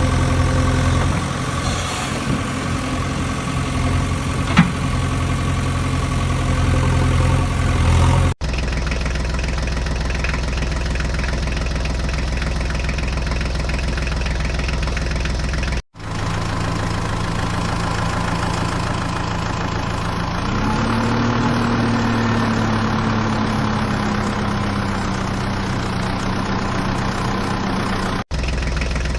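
Small motor running steadily in several cut-together clips. About two-thirds through, its pitch rises a little and then slowly sinks.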